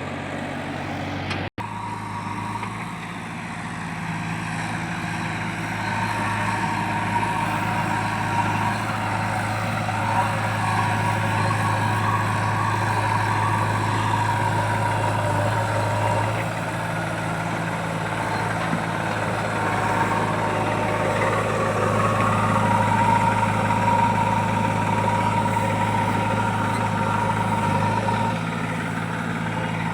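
Heavy diesel machinery engine running steadily, getting somewhat louder about five seconds in.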